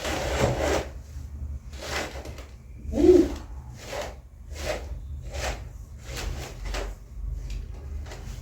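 Curtain hooks sliding along a curtain rail as curtains are hung: a run of short sliding scrapes about once a second, the loudest about three seconds in.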